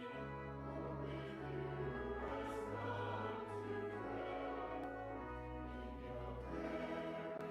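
Church choir singing slow, held chords over sustained low organ notes, with the sung words' consonants hissing now and then.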